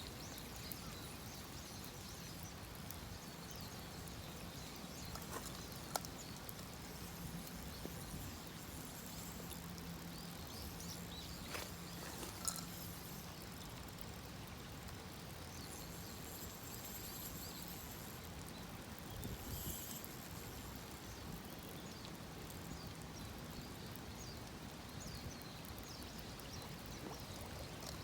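Steady rain ambience outdoors: an even hiss with a faint low hum through the middle and a few sharp clicks scattered through.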